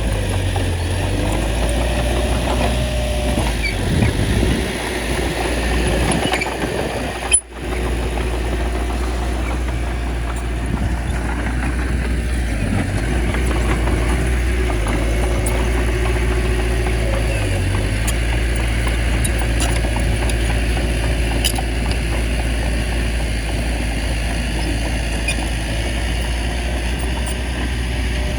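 Bulldozer's diesel engine running steadily under load, with a deep, even drone; the sound cuts out for an instant about seven seconds in.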